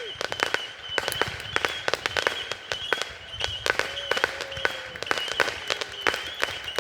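Fireworks popping and crackling in a rapid, irregular stream of sharp reports, with a faint whistle about four seconds in.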